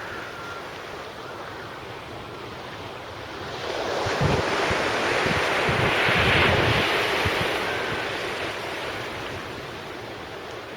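Sea surf breaking on the beach: the wash builds about three and a half seconds in, is loudest around the middle, and then draws back. Wind buffets the microphone while the wave is loudest.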